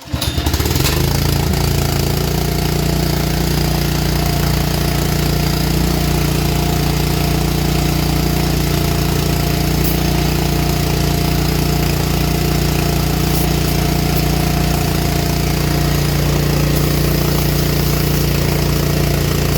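Air compressor switching on abruptly and then running steadily and loudly.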